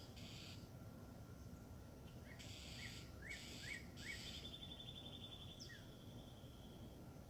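Backyard birds calling: several harsh, rasping bursts and a run of short rising chirps, then a rapid high trill of about ten notes a second lasting about three seconds, over a faint low rumble.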